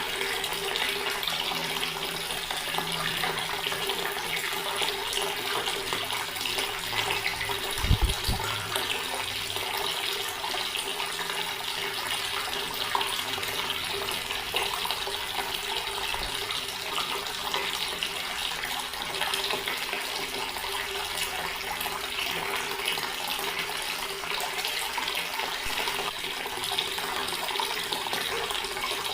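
Water running steadily from a tap and splashing into a stone basin. There is a brief low thump about eight seconds in.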